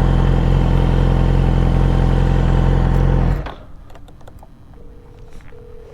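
Motorcycle engine running steadily at a constant speed, then switched off about three seconds in. Near the end a faint steady tone of a phone call ringing out begins.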